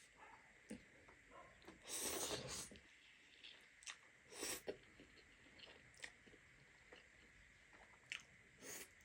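Close-up chewing of buldak instant noodles, with soft wet mouth clicks and three short, louder slurps about two, four and a half and nearly nine seconds in.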